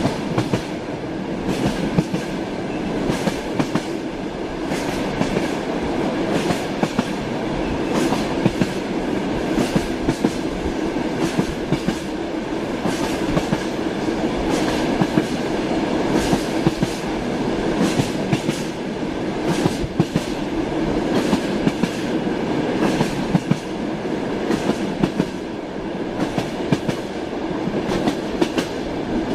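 Train running, its wheels clacking over rail joints in frequent sharp knocks over a steady rumble.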